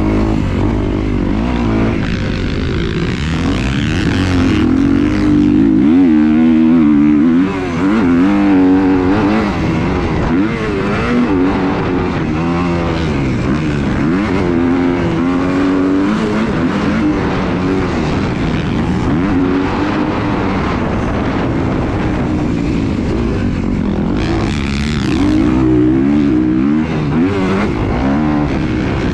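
Engines revving up and down repeatedly, their pitch rising and falling every second or two, with more than one engine heard at once at times, over a steady rushing noise.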